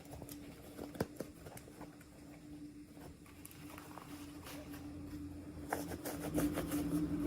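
Light clicks, taps and rustles of small plastic toy pieces and packaging being handled, over a faint steady hum. The handling gets busier and louder near the end.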